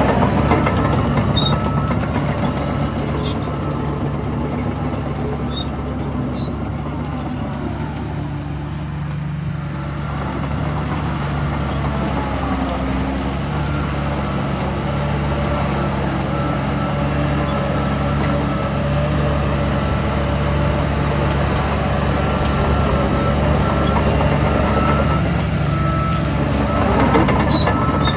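Heavy diesel engines of earthmoving equipment, a crawler bulldozer and dump trucks, running steadily under load, with an engine revving up briefly near the start and again near the end.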